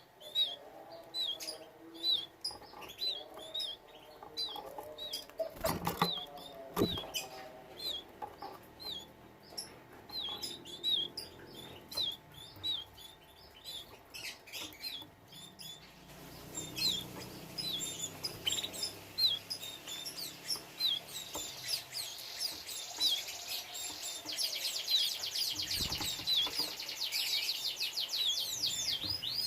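Domestic canaries chirping in short repeated calls about twice a second, with two sharp knocks about six and seven seconds in. In the second half a fast trilling song joins in and grows louder toward the end.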